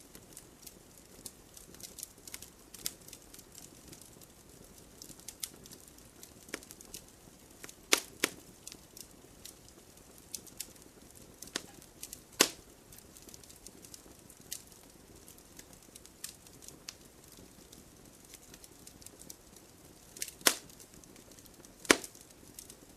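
Wood campfire crackling and popping: irregular sharp snaps over a faint steady hiss, with a few louder pops about 8, 12, 20 and 22 seconds in.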